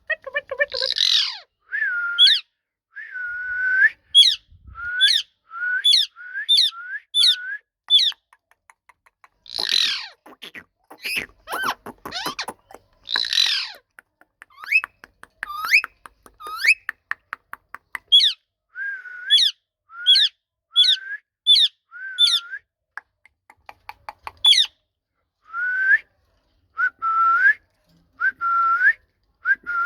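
Ringneck parrot whistling a long series of short swooping notes, about two a second, with two louder harsh squawks in the middle and quick clicking chatter between the notes.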